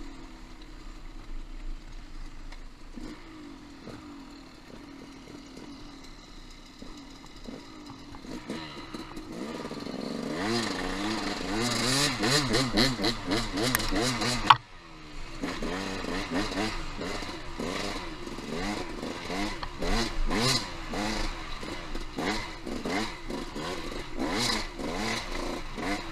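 Trail motorcycle being ridden over rough singletrack: the engine runs low and quiet for several seconds, then revs up and down over and over as the rider works the throttle. About halfway through a single sharp knock, the loudest sound, cuts the engine noise out for a moment, and the revving goes on after it with rattling and clattering from the bike.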